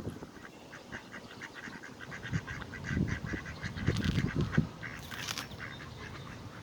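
Ducks quacking in a quick, chattering run of short calls, with a few low thumps partway through.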